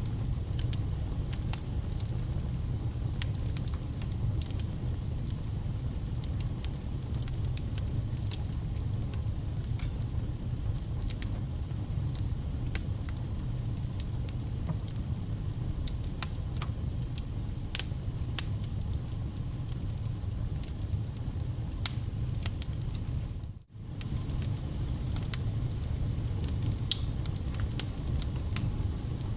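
Wood fire burning: a steady low rumble of flames with frequent sharp crackles and pops from the burning logs. About three-quarters of the way through, the sound drops out for a split second.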